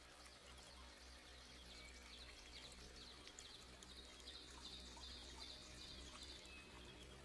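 Faint nature ambience: a soft steady hiss with a rapid, high-pitched chirping trill that starts about a second and a half in and stops shortly before the end.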